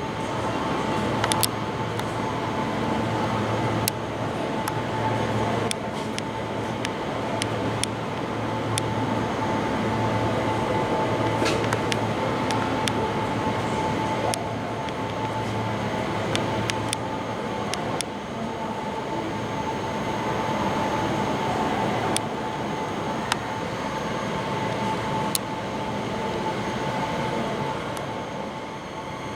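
A train running, with a steady rumble, a held hum and many irregular sharp clicks and knocks throughout.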